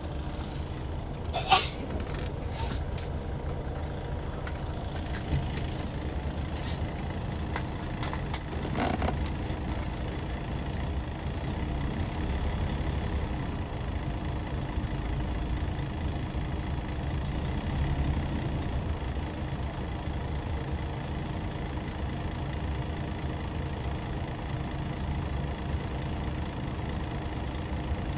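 Hyundai D6CC Powertec 380 diesel engine of a Hyundai Universe Comfort coach running steadily with a low, even hum. A sharp click about a second and a half in.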